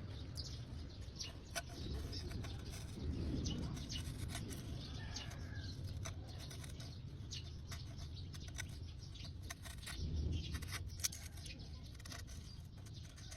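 Old gasket being scraped off a motorcycle engine part: irregular scratching strokes and small clicks over a low rumble.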